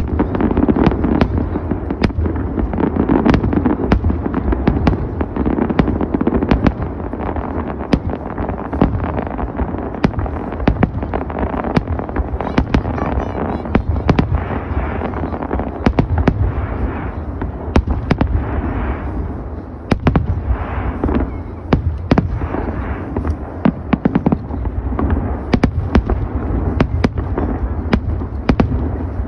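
Aerial fireworks going off in rapid succession, many sharp bangs and crackles a second over a continuous booming rumble.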